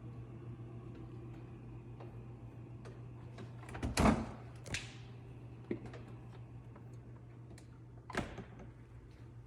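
Things being handled and put away in a refrigerator: a few short knocks and rattles, the loudest about four seconds in, another just after and one more near the end, over a steady low hum.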